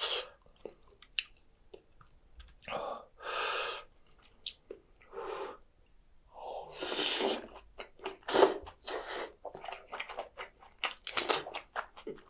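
Close-miked eating: a spoon scooping, then a mouthful of rice ball, steamed egg and bean sprouts taken in and chewed, with wet mouth sounds and a run of short crisp crunches near the end.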